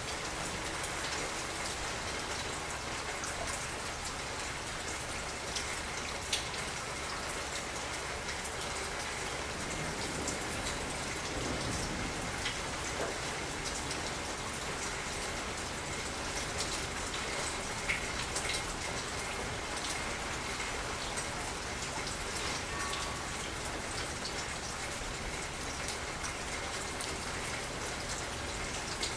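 Steady rain falling, a constant hiss with many small scattered drop ticks on surfaces.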